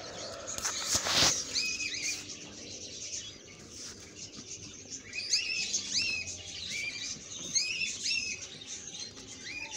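Small birds chirping: many short, arched chirps repeating, with a brief rush of noise about a second in.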